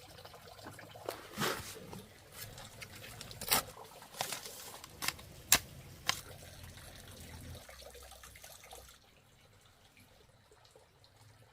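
Water splashing and dripping, with a handful of sharp splashes in the first half that die down to a faint trickle near the end.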